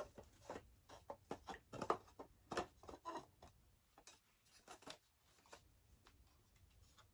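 Irregular light clicks and taps of the loose parts of a toy doll high chair being handled and fitted together while it is reglued, thickest in the first five seconds and sparser after.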